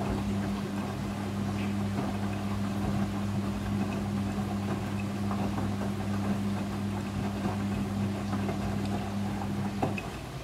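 Midea front-loading washing machine giving a steady low electric hum, which cuts off with a click near the end.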